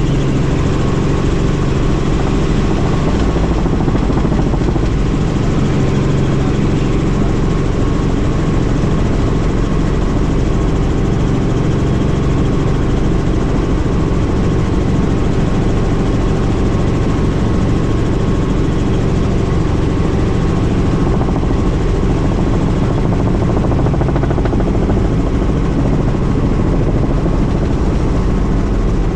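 Helicopter in flight, its engine and rotor noise loud and steady throughout.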